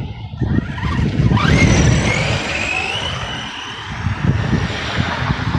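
Redcat Shredder 6S RC monster truck driving in mud: its brushless electric motor whines, the pitch climbing sharply about a second in and then rising more slowly as it speeds up, over a low rumble from the tyres and drivetrain.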